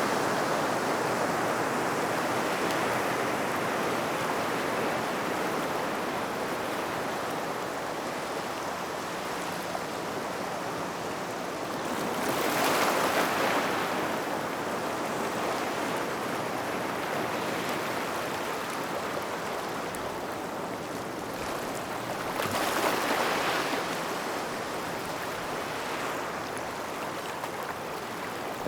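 Small waves washing onto a gravel beach: a steady rushing hiss that swells twice, about ten seconds apart, as waves break and run up the stones.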